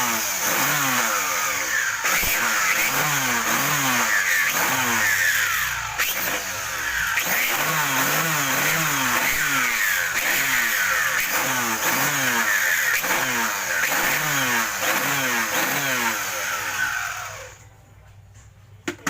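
A motor running hard with loud hiss, its pitch rising and falling over and over, roughly twice a second. It stops about three seconds before the end.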